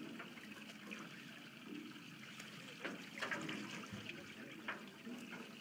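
Water splashing and trickling, with a few sharper splashes about three seconds in.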